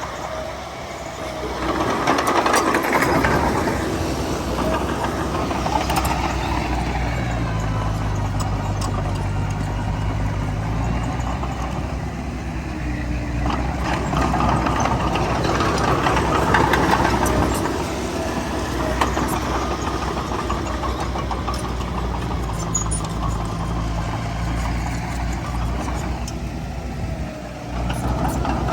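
Heavy diesel engine of a bulldozer working, swelling louder under load about two seconds in and again around fourteen seconds, with a few short knocks.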